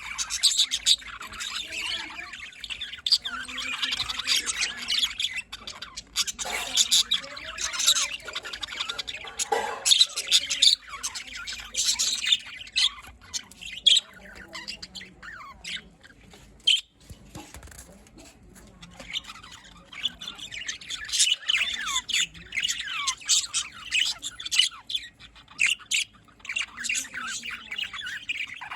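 A flock of budgerigars chattering and squawking, many short chirps and calls overlapping, with a quieter lull about midway before the chatter builds again.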